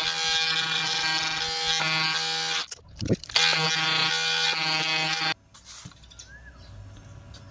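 Electric multi-tool sanding welded plastic on a motorcycle headlamp casing with 120-grit sandpaper: a steady buzz that stops about two and a half seconds in, runs again after a short pause and cuts off suddenly a couple of seconds before the end.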